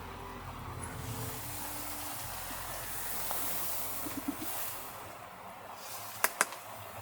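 Rushing hiss of rain and wind that swells and eases, with two sharp clicks about six seconds in.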